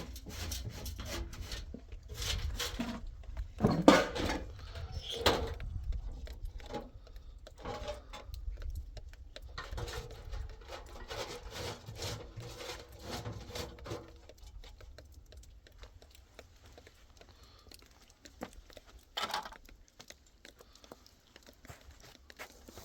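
Irregular knocks, scrapes and clatter of objects being handled over a steady low rumble, busiest in the first half and sparse later, with one short louder scrape about three-quarters of the way through.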